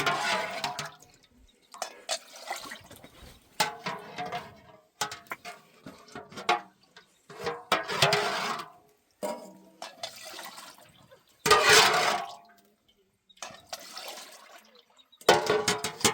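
Water splashing in a series of short bursts with pauses between them, the loudest about two-thirds of the way through.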